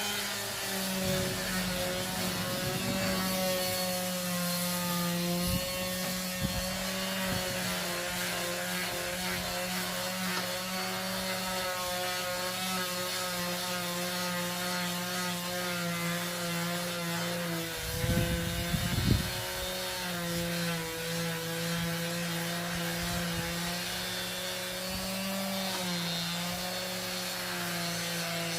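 Electric power sander running on wood with a steady motor hum whose pitch dips slightly under pressure. A brief cluster of knocks comes about two-thirds of the way through.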